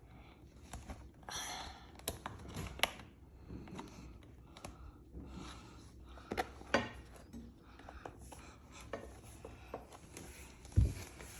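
Handling sounds of a lawnmower grass collector bag being slid onto its holder's grooves: scattered light clicks and rustling, with a dull thump near the end.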